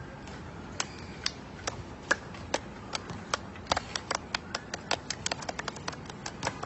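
A pet bird making a quick series of sharp clicks, irregular at first and coming faster in the second half.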